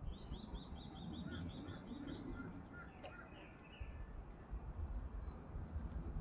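Forest songbirds singing. A rapid run of about ten short, high, identical notes opens it, followed by scattered chirps from other birds, over a low rumble with soft irregular thuds.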